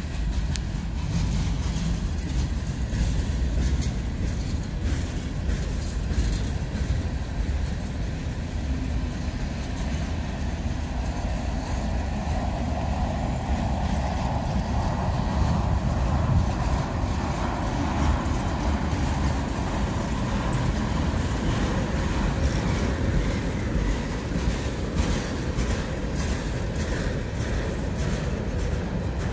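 Freight train of tank cars and covered hoppers rolling past at slow speed: a steady low rumble of steel wheels on rail, with scattered clicks.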